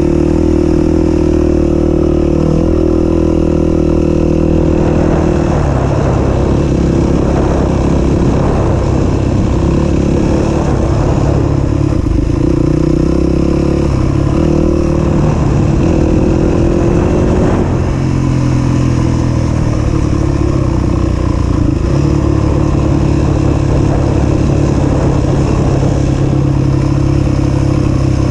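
A 250 cc single-cylinder four-stroke dirt bike engine running while ridden. It holds a steady note at first, then rises and falls with the throttle through the middle stretch, and settles into a steadier note again for the last third.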